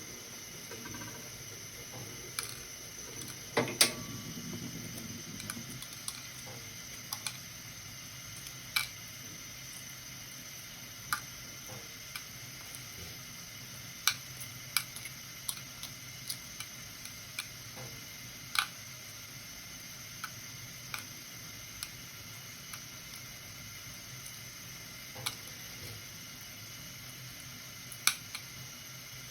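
Kitchen utensils and cookware handled during food preparation: irregularly spaced sharp clicks and light knocks over a steady hiss, with the loudest clatter about four seconds in.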